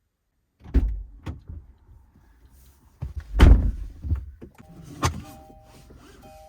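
Car door and cabin handling: several knocks and thuds, the loudest about three and a half seconds in. About four and a half seconds in, the car's two-note electronic warning chime starts and repeats.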